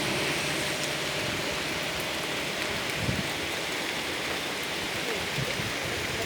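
Heavy tropical rain falling as a steady, even hiss of downpour, with an occasional soft knock of a heavier drop.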